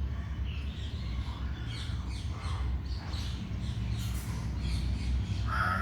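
Many short bird chirps from parakeets and munias feeding together, scattered throughout, over a steady low rumble. A louder, arching call comes near the end.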